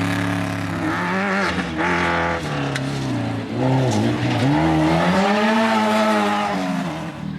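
Off-road desert race vehicle's engine revving hard as it passes, its pitch dipping in the middle and then climbing and holding, fading near the end.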